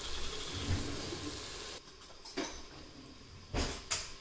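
Chopped vegetables and bacon sizzling in an Instant Pot's steel inner pot, a steady frying hiss. About two seconds in the sizzle cuts off, and three sharp taps follow: one a little before the halfway mark and two close together near the end.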